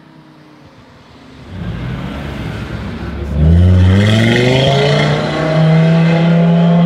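Audi TT RS's turbocharged five-cylinder engine, decatted with a Milltek exhaust and a TTE700 turbo, revving up. A rumble comes in after about a second and a half and jumps loud about three seconds in, its pitch rising and then holding steady at high revs, typical of revs held on launch control.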